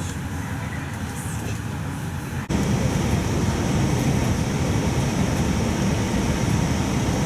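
Bus running, a steady engine and road rumble. About two and a half seconds in it changes abruptly to a louder, deeper rumble that then holds steady.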